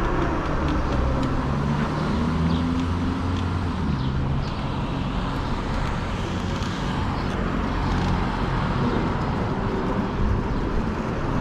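Steady riding noise of a fat-tire e-bike on the road: tire hum and wind on the microphone, with a low hum that drifts up and down in pitch.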